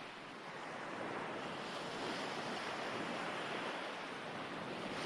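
Recorded ocean waves washing on a shore: a steady hiss of surf that swells gently and rises again near the end.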